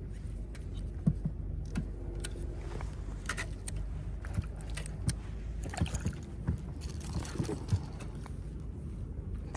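Small fishing boat on the water: a steady low rumble with scattered light knocks and clicks from the boat and gear.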